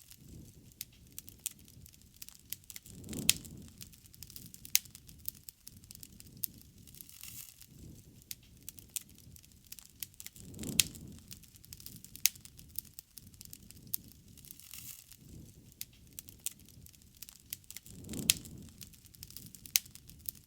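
Wood bonfire crackling, with frequent sharp pops and snaps. Low rushing swells rise and fall three times, about seven and a half seconds apart.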